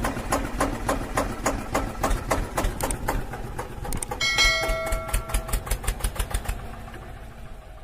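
Small diesel engine of a mini water pump rig chugging with an even beat of about five pulses a second, the beat slowing and fading in the last few seconds. A brief metallic ring sounds about four seconds in.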